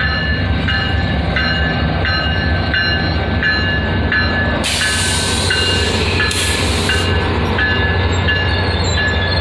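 Slow-moving train rumbling steadily. A short, high ringing tone repeats about one and a half times a second throughout, and a burst of hiss comes in about five seconds in and lasts a couple of seconds.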